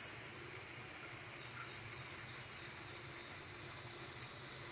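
Onion-tomato masala sizzling faintly and steadily in oil in a nonstick frying pan on a medium flame, the spices being fried until the oil separates.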